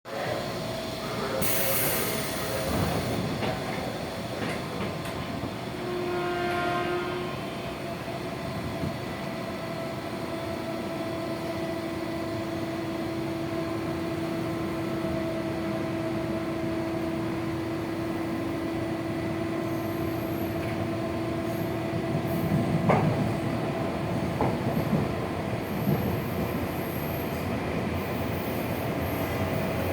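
Tokyo Metro 6000 series electric train with Hitachi-Mitsubishi chopper control running, heard from on board: a steady whine from the chopper control over wheel and rail noise, with a sharp click late on.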